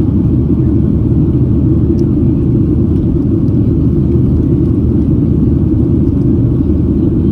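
Steady low rumble of a Boeing 737-800's CFM56-7B engines and airflow, heard inside the rear coach cabin.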